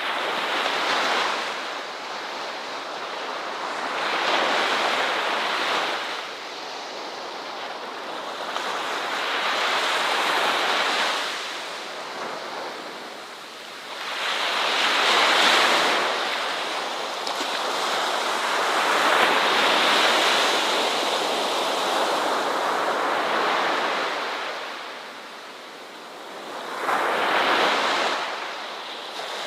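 Ocean waves breaking and washing on a shore, each surge of surf swelling and falling away every few seconds in a steady hiss.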